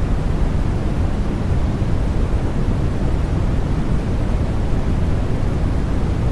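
Steady white noise for infant sleep, a constant deep hiss weighted toward the low end, with no changes or events.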